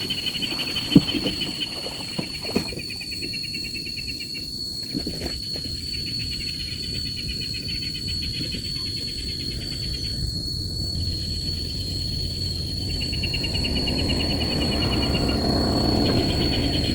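Insects calling: a steady high whine throughout, with a pulsing trill that comes and goes. Under it a low rumble swells toward the end, and there are a few sharp knocks in the first few seconds.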